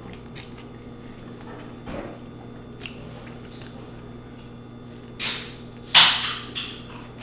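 A soda can being cracked open: a sharp crack with a short hiss about five seconds in, then a louder crack with a fizzing hiss that dies away over about half a second. A few faint clicks come earlier.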